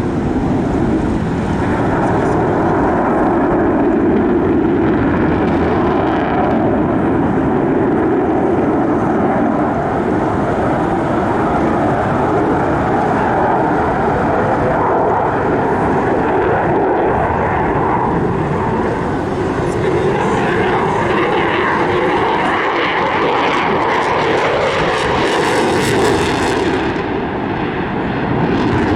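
Airplane engine noise from an aircraft flying at an airshow, loud and continuous, with a higher hiss building in the last several seconds as it passes closer.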